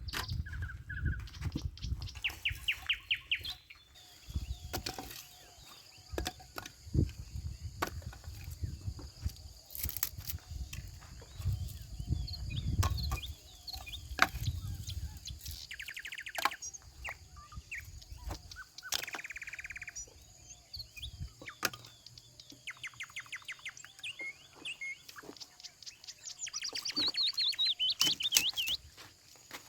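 Small birds chirping in short, rapid trills, with a run of rising chirps near the end. A low rumble and scattered sharp knocks run underneath.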